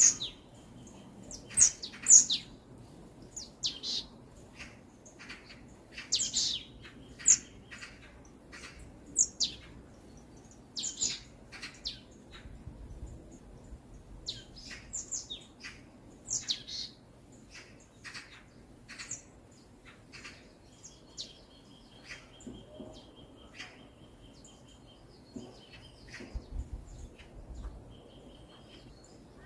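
Forest songbirds chirping: many short, sharp high-pitched notes come in clusters throughout. About two-thirds of the way in, a rapid, even trill of repeated notes runs for a few seconds over a faint low hush.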